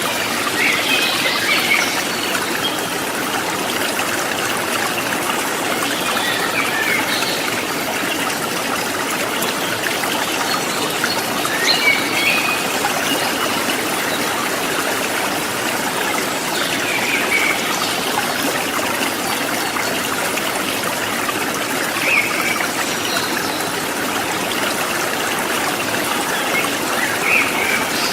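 Shallow river running over rocks, a steady rushing and trickling. Short high chirps come through it about every five seconds.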